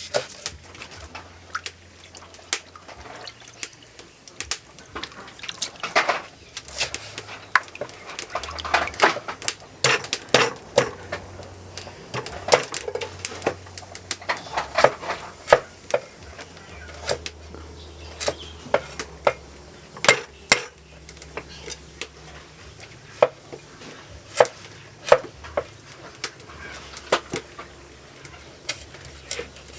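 Kitchen food preparation: a long run of irregular sharp knocks and clicks from utensils and cookware, sometimes a few a second, with short pauses between.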